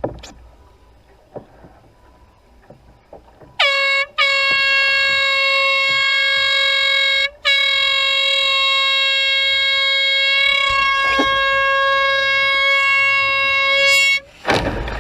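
An air horn sounding on one steady high note in three blasts: a short one, then one of about three seconds, then a long one of about seven seconds, with brief breaks between them.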